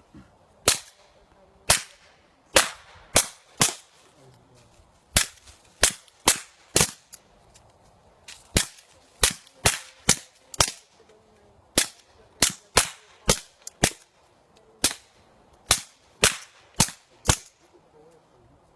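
Suppressed .22 LR gunshots with subsonic ammunition, fired from several different suppressed guns: about two dozen sharp cracks in short strings of two to five shots, with pauses between strings.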